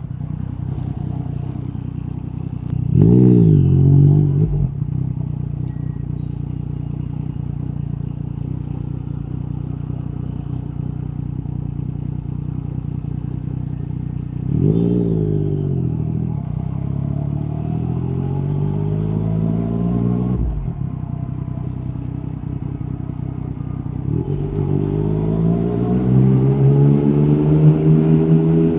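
Yamaha MT-09 SP's inline three-cylinder engine through an Akrapovic carbon exhaust with the dB killer removed, running at low speed. There is a short sharp rev about three seconds in, another rev around fifteen seconds in with the pitch falling away over the next few seconds, and a steady climb in revs as it accelerates near the end.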